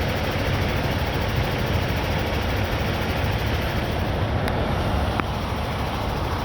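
Steady low rumble of idling semi-truck diesel engines, with two faint clicks about four and a half and five seconds in.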